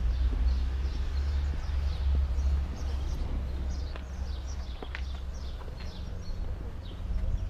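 Birds singing outdoors: runs of quick, high, falling chirps, several a second, over a steady low rumble.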